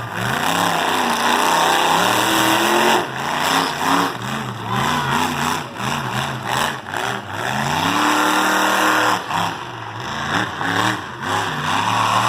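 Monster truck engine revving hard again and again, its pitch swinging up and down, with one long climb in pitch near the end.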